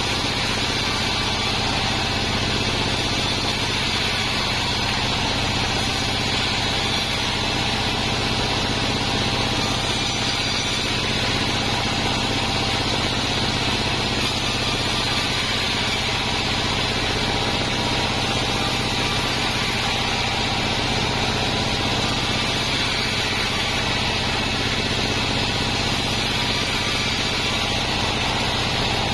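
Sawmill band saw running steadily, a constant hum and bright hiss that holds the same level throughout.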